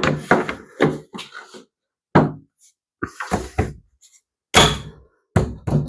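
A man grunting and straining in short bursts as he forces plastic pool-ladder sections together, with a few sharp knocks and clicks from the plastic parts.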